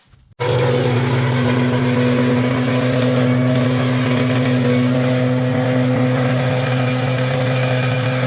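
An engine running steadily at a constant speed. It comes in abruptly about half a second in.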